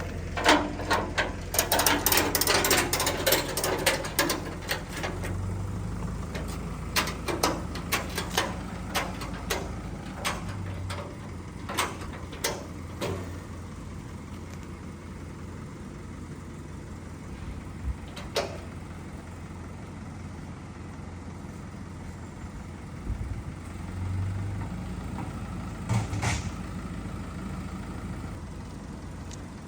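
A vehicle engine idling with a steady low hum, while sharp metallic clicks and knocks come thick and fast over the first few seconds, then more sparsely, with a couple of lone knocks later on.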